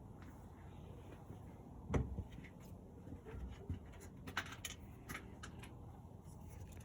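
Scattered clicks and taps of screws and metal parts being handled, with one louder knock about two seconds in, while an auger motor is being refitted to a pellet smoker.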